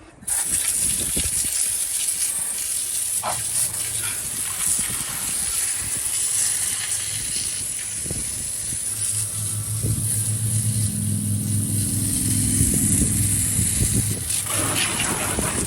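Water spraying hard from a hose nozzle onto a car's engine bay, rinsing off degreaser; a steady hiss that starts suddenly. A low hum joins it for several seconds past the middle.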